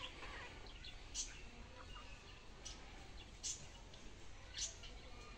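Birds giving a few short, high chirps, spaced roughly a second apart, over a faint outdoor background.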